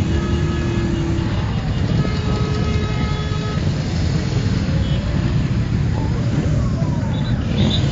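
Motorcycles riding in a caravan, with a steady engine and wind rumble. A vehicle horn is held for about a second at the start, and a second horn on a higher note sounds for about a second and a half about two seconds in.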